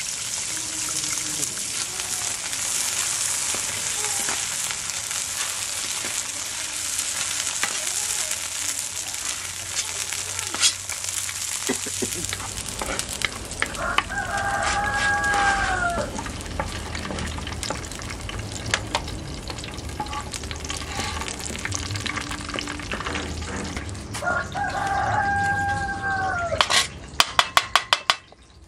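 Bird's-eye chillies, shallots and garlic sizzling steadily as they fry in oil in a wok. A rooster crows twice, about halfway through and again near the end. Just before the end comes a quick run of knocks from a perforated metal spatula as the fried spices are tipped into a stone mortar.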